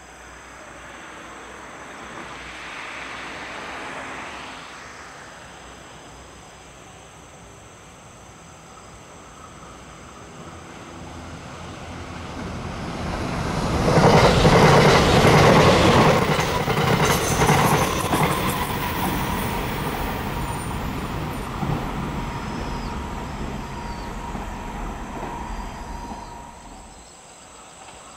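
A white limited-express electric train passing close by. Its wheels on the rails rise to a loud rush about halfway through, with clattering over the rail joints and a steady ringing tone from the wheels, then fade as it moves away.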